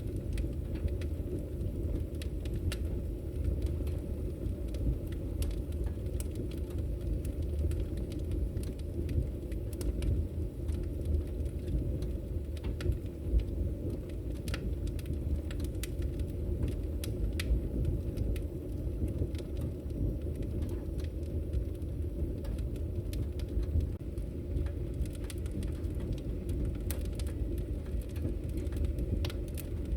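Wood fire burning in a fireplace: a steady low rush of flames with scattered, irregular sharp crackles and pops of burning logs.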